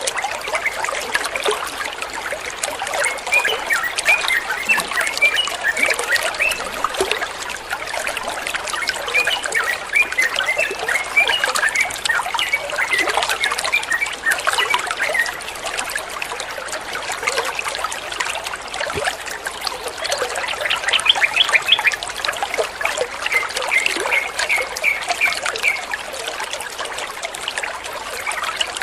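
Water trickling and running steadily, with a yellow-vented bulbul (trucukan) singing runs of quick chirping notes over it, several times.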